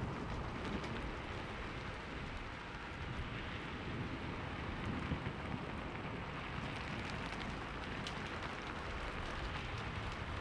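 Steady rainfall: an even hiss of rain with scattered sharp drop ticks and a low rumble underneath.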